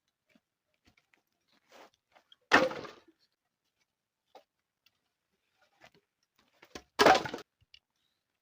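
Two heavy thunks about four and a half seconds apart, each dying away within half a second, with a few faint knocks and clicks between.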